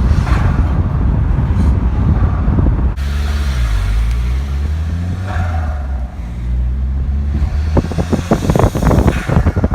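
Mazda 6 MPS's turbocharged 2.3-litre four-cylinder engine under load with a dense rush of noise. About three seconds in it drops to a low steady running note that dips in pitch once. In the last couple of seconds comes a rapid, irregular fluttering chatter, the turbo flutter.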